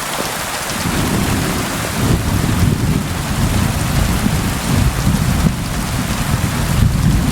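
Steady rain hiss. About a second in, a low rolling rumble of thunder builds under it and keeps rolling.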